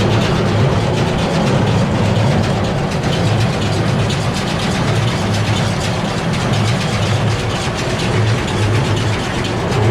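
A 2001 New Holland BB940 large square baler running empty off a tractor's PTO at about 800 RPM, its plunger and flywheel working, with the tractor engine running steadily underneath. The drone swells and eases slightly every second or so.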